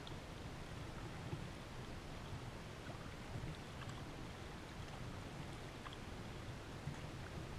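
Water noise around a moving kayak: a steady low rumble with a few faint scattered drips and ticks.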